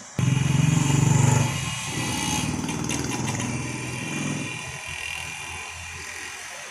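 A motor vehicle's engine running loud and close, starting suddenly and then fading over a few seconds.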